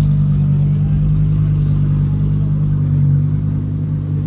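Car engine running at steady revs, a low even drone.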